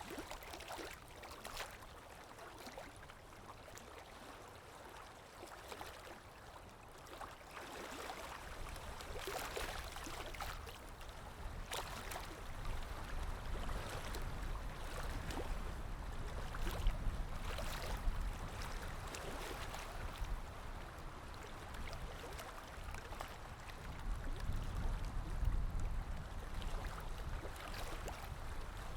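Calm sea waves lapping and washing in, a steady splashy wash with a low rumble that swells up a few seconds in and peaks twice, around the middle and near the end.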